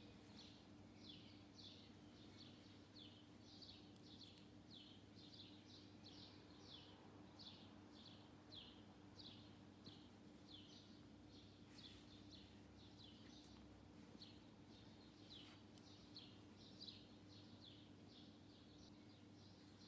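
Faint bird chirping: short high chirps, each falling in pitch, repeated about two or three times a second, over a low steady hum.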